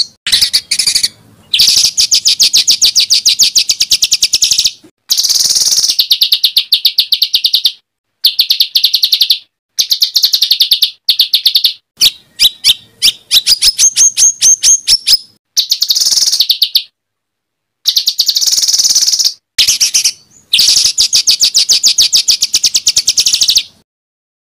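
Caged songbird singing harsh, rapid phrases of repeated notes in bursts of one to three seconds with short pauses between them. Around the middle the song breaks into separate notes and short rising whistles, and it stops shortly before the end. This is the rough, fast 'tembakan' song used as masteran to train Indonesian competition birds.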